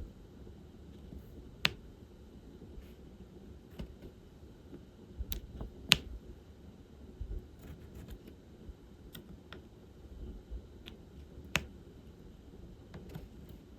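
Diamond painting: a drill pen tapping small resin drills onto the sticky canvas and picking them up from the tray. It makes light, sharp clicks at irregular intervals, with louder taps about two, six and eleven and a half seconds in.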